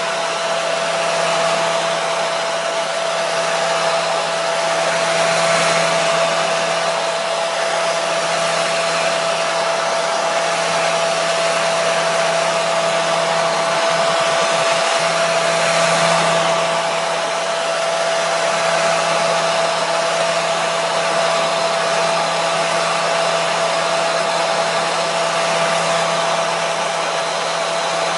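Handheld hair dryer running steadily: an even blowing hiss with a constant motor whine.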